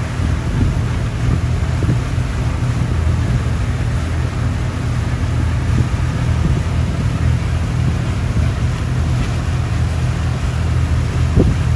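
A boat's engine running steadily under way, with a low drone and wind buffeting the microphone.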